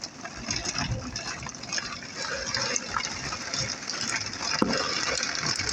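Heavy rain pouring down: a steady rush of water with many small drop impacts, growing a little louder as it goes.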